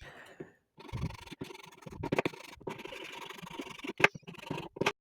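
Plastic handling noise as a 3D-printed handle is pushed and worked against the pressure cooker lid: steady scraping and rubbing with several sharp clicks, the loudest about four seconds in, cutting off abruptly near the end.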